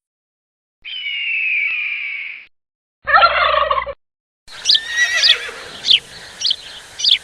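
Bird calls in three short bursts separated by silence: one drawn-out call, then a brief warbling call, then about five sharp repeated calls near the end.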